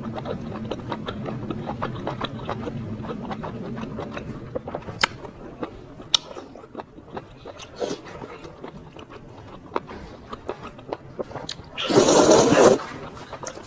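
Close-miked eating sounds of noodles: a run of small wet chewing clicks and smacks that thin out, then one loud slurp about twelve seconds in.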